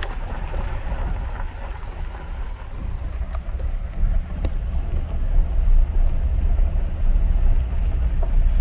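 Jeep driving slowly, a steady low rumble of engine and road noise with a few faint clicks.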